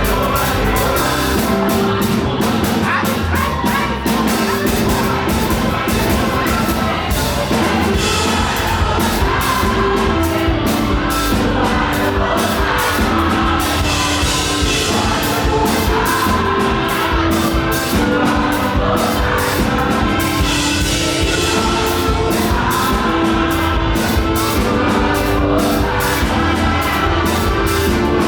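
Live up-tempo gospel praise music: a band with a driving drum beat and voices singing.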